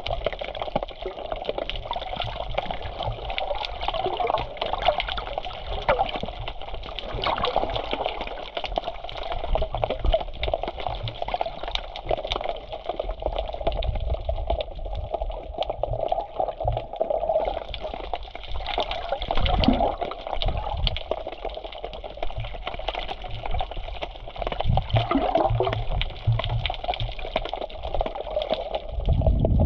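Black Sea waves washing steadily onto the beach, with low rumbling surges a few times that sound like wind on the microphone.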